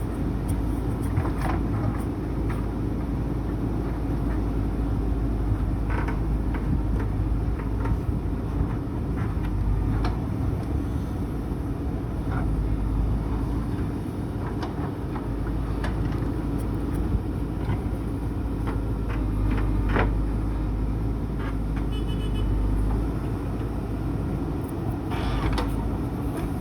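JCB backhoe loader's diesel engine running steadily under work, with scattered sharp knocks now and then.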